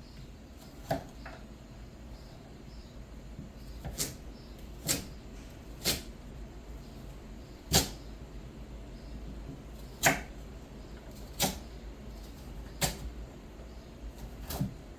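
Kitchen work: about nine sharp knocks and clacks, spaced irregularly a second or two apart, over a low steady hum.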